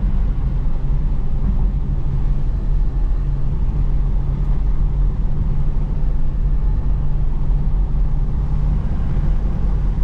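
Chevrolet Camaro SS V8 running steadily with its exhaust in quiet stealth mode, a low engine hum under a haze of wet road and tyre noise.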